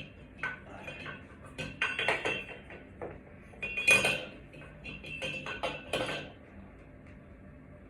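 Metal objects clinking and clattering in a string of short rattles, loudest about four seconds in, as hardware and tools are handled while a ceiling fan is taken down.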